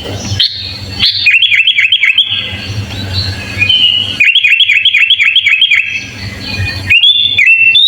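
Sooty-headed bulbul (kutilang) singing loudly, with runs of quick, dipping chirps repeated several times a second and rising whistled notes near the end.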